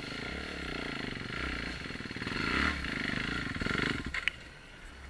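Single-cylinder dirt bike engine pulling along a trail. It builds up under throttle about two seconds in, then drops back sharply just after four seconds as the throttle closes.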